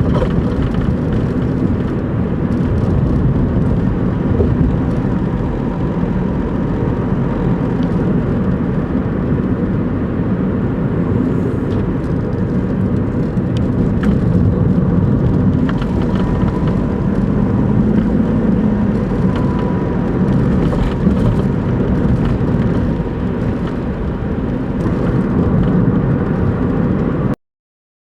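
Daihatsu Move Custom's (L175S) three-cylinder engine running, with a loud steady drone of engine and road noise. It cuts off abruptly near the end.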